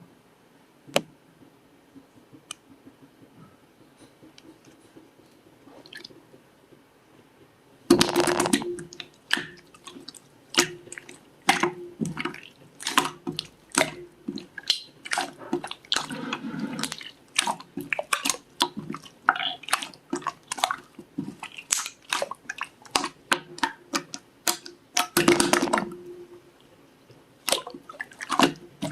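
Slime being handled: only a few faint clicks at first, then from about a third of the way in a dense run of wet clicking, popping and squishing as it is pressed and pulled.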